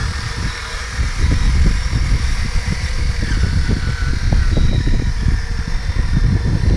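An irregular low rumble, the loudest thing throughout, over a faint steady whine from the RC4WD scale bulldozer's electric drive motors, the whine sliding in pitch briefly about three seconds in.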